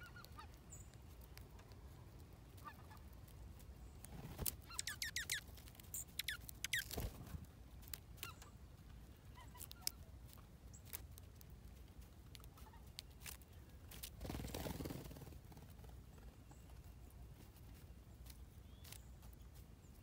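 Faint bird calls in quick clusters about four to seven seconds in, with a few softer calls elsewhere, over a low steady background rumble. Light clicks are scattered throughout, and a brief rush of noise comes about fourteen seconds in.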